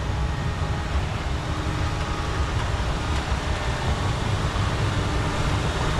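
Heavy diesel earthmoving equipment running steadily, a continuous low engine rumble.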